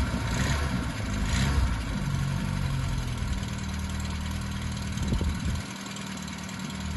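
VW Mk1 engine freshly started from cold after standing all winter, blipped up and down a few times, then settling to a steady idle. The low engine rumble drops away about five and a half seconds in, leaving a quieter hum.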